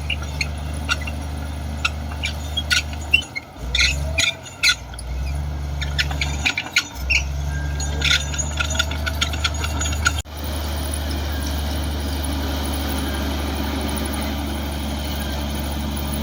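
Komatsu D58 bulldozer's diesel engine running steadily, with many sharp squeals and clicks from its steel tracks over the first ten seconds. The sound breaks off abruptly about ten seconds in, and the engine drone carries on alone.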